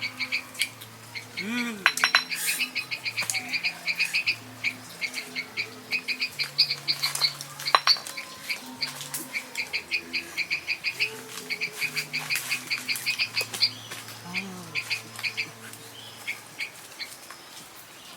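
Frogs calling in a rapid pulsed chorus, several clicking croaks a second, with a couple of sharp knocks.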